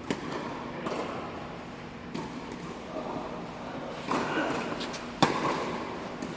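Tennis ball struck by rackets and bouncing on the court: a handful of sharp pops at uneven intervals, the loudest about five seconds in.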